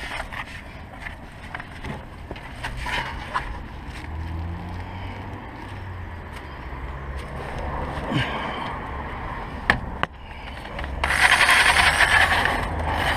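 Workshop work on a car's wheel hub: scattered metallic clicks and knocks, then about two seconds of loud, dense rasping near the end.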